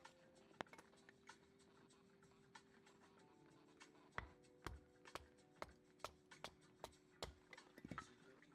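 Sparse, irregular clicks and small knocks over faint background music of long held notes.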